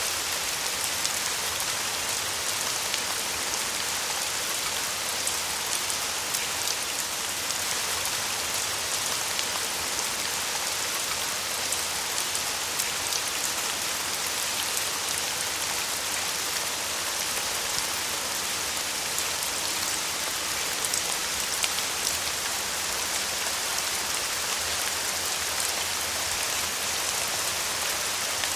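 Steady rain falling, a dense even patter of drops with fine individual drop ticks.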